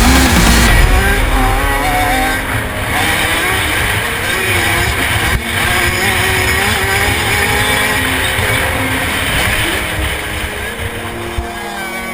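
Motocross dirt bike engines running hard, their pitch rising and falling with throttle changes. Music cuts out under a second in.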